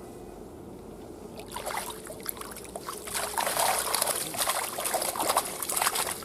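Water streaming and splashing as the day's catch of crucian carp is lifted out of the water. It starts about a second and a half in and grows louder, with dripping and sloshing strongest in the second half.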